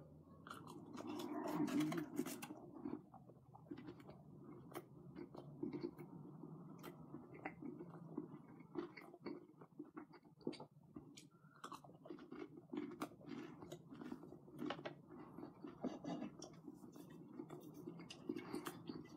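A person chewing crispy, crunchy chicken nuggets with the mouth close to the microphone: a bite, then faint, steady chewing with small irregular crunches, loudest in the first few seconds.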